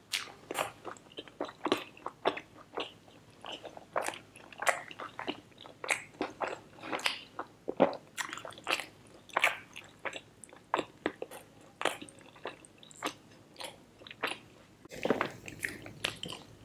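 Close-miked chewing and wet lip smacking of a person eating naan dipped in butter chicken gravy: a fast, irregular run of sharp clicks and smacks.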